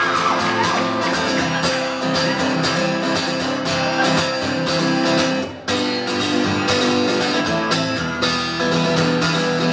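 Guitar strumming chords in the instrumental break of a live song, with a brief pause in the strumming a little over halfway through.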